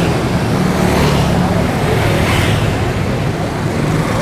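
Steady road traffic noise, with indistinct voices in the background.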